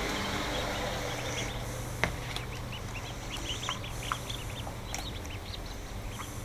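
Newly hatched ducklings peeping: many short, rapid, high chirps, building up about a second and a half in, over a steady low hum, with a couple of sharp clicks.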